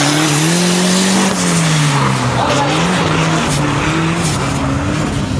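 A drift car's engine revving, its pitch rising and falling several times, over a steady hiss of tyres sliding and screeching.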